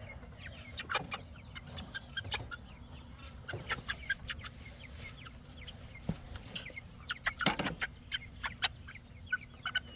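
Chickens clucking and chirping in short, scattered calls, with a few sharper scuffling knocks about seven to nine seconds in.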